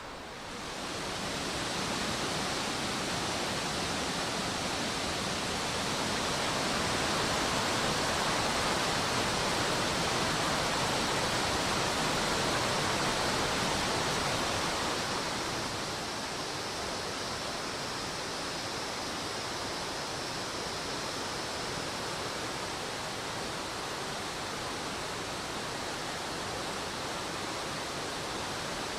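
Rushing water of the Oirase mountain stream's Ashura-no-nagare rapids, a steady rush that swells about a second in and drops back a little at about 15 seconds.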